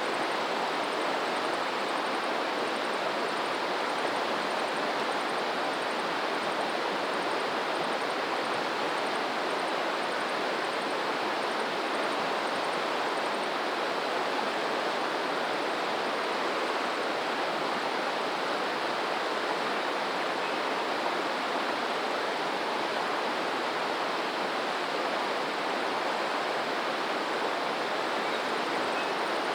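Stream water flowing over rocks in a steady, unbroken rush.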